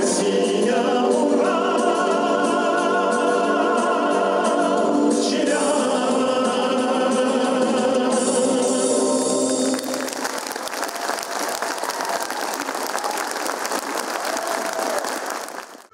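A group of voices singing with musical accompaniment, ending about ten seconds in, then an audience applauding for several seconds.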